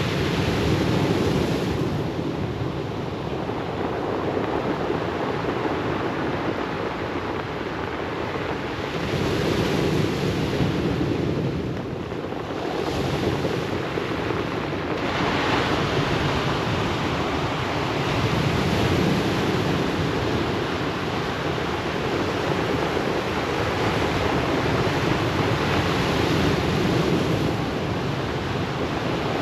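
Ocean waves breaking and washing up a pebble beach, swelling and easing every few seconds, with a brighter rush about fifteen seconds in.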